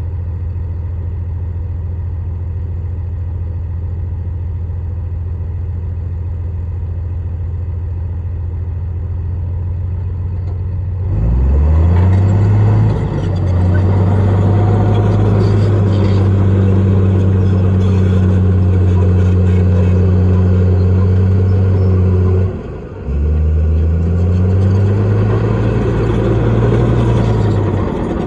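Heavy diesel engine of earthmoving machinery idling steadily, then revving up about eleven seconds in and holding high revs under load. It drops back briefly near the three-quarter mark, rises again, and falls off near the end.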